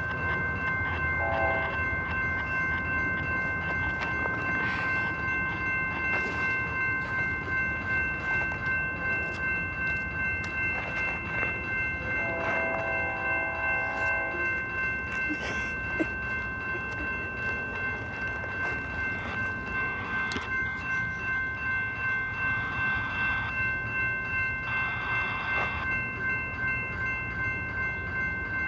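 A train rolling past with an even, repeating beat from its wheels, and a short horn chord about halfway through.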